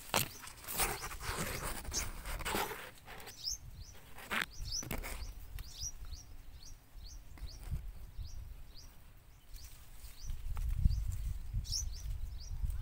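A small bird calling over and over with short, high, falling chirps, about two a second. Several loud rushing gusts of noise come in the first five seconds, over a low rumble that swells near the end.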